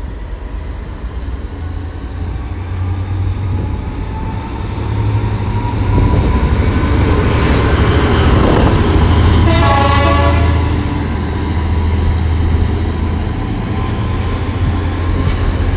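A double-headed diesel freight train passes: Class 66 locomotive 66418 leading and Class 70 70001 behind, their engines working hard in a deep, steady drone that grows louder about five seconds in, with the wagons rolling by. A short horn blast sounds about ten seconds in.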